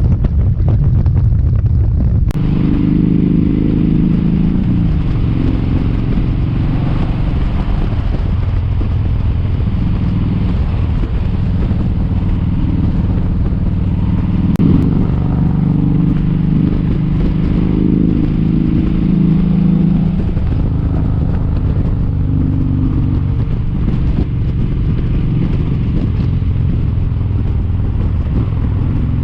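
Kawasaki Vulcan 1700 Vaquero's V-twin engine running at road speed, its note rising and falling in places. Heavy wind buffeting on the microphone for the first two seconds or so.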